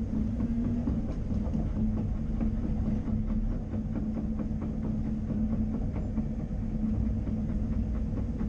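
Caterpillar 330 Next Generation excavator at work, its diesel engine running steadily with a constant hum, and frequent small knocks and clatters from the machine throughout.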